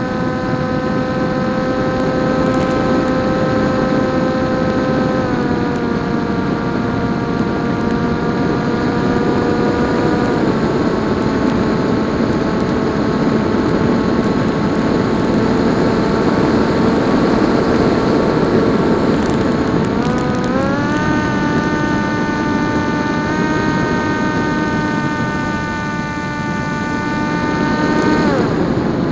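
Electric motor and propeller of a PopWing RC plane running in flight, a steady whine that steps down in pitch twice as the throttle eases off, climbs again about two-thirds through, and falls sharply just before the end. A rushing wind noise runs underneath.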